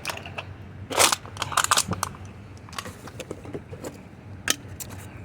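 Aluminum drink cans being crushed: irregular crinkling, crackling crunches of thin metal, with the loudest crunch about a second in.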